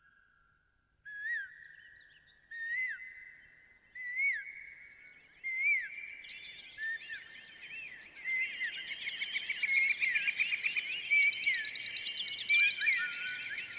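Birdsong opening a background music track: single rising-and-falling chirps about every second and a half over a faint steady tone, thickening from about six seconds in into a dense chorus of overlapping chirps.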